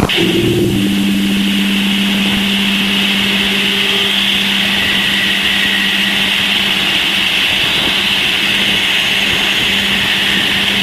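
Voyager 2's radio and plasma-wave recording of Uranus' magnetic field, converted into sound. It plays as a steady, unchanging low hum under a band of hiss, with a few faint steady tones.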